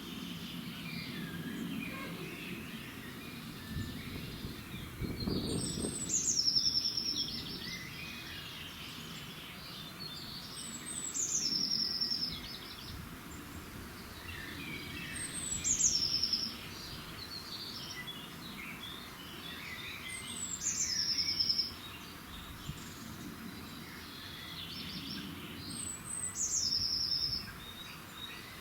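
Dawn birdsong: one songbird repeats the same short song five times, about every five seconds, a high falling phrase ending in a quick trill, while other birds chirp softly in between.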